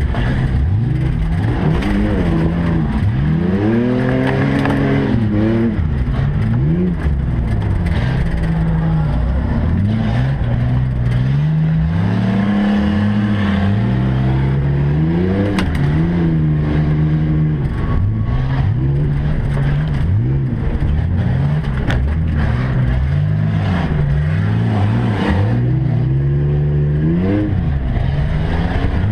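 Several race trucks' engines revving up and falling off again and again, their pitches overlapping as they race.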